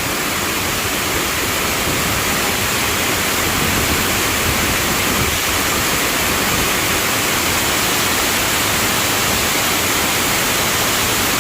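Strong-flowing waterfall: a steady, loud rush of falling water.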